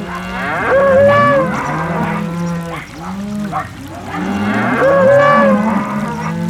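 Cattle mooing, with several long calls overlapping at different pitches, loudest about a second in and again about five seconds in.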